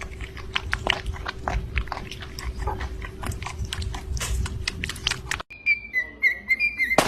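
An animal chewing noisily, a rapid irregular run of crisp crunching clicks. About five seconds in, this cuts to a thin, high, wavering whine.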